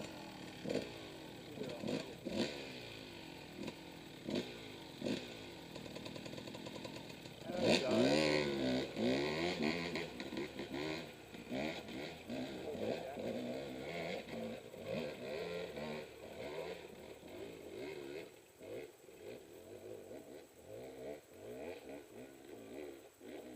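Dirt bike engine revving hard in repeated bursts as the rider fights up a steep, loose hillclimb. Short blips of throttle come first, then a long loud surge about eight seconds in, before the engine fades away toward the end.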